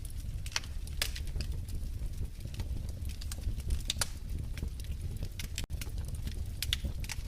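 Wood fire crackling in a fireplace: irregular sharp pops and snaps scattered over a low, steady rumble of the flames.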